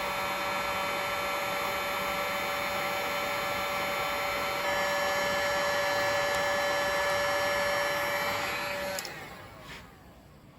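A small electric motor tool running steadily with a whirring whine, a little louder from about the middle, then switched off about nine seconds in and fading out over a second.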